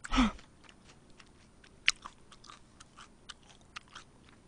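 Close-miked chewing of soy sauce fried chicken: scattered crisp, crunchy clicks of the coating, one sharper crunch about two seconds in. A short falling vocal sound comes right at the start.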